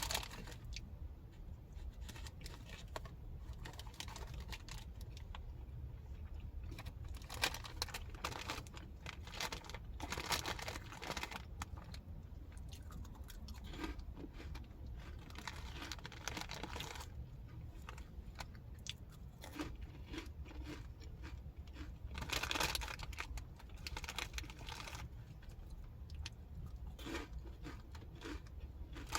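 A person chewing and crunching a snack close to the microphone, in irregular crunchy bites, with rustling and crinkling of a snack wrapper now and then.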